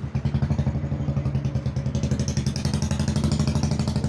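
A small engine running at a steady idle, pulsing evenly at about ten beats a second; a higher hiss joins the beat about two seconds in.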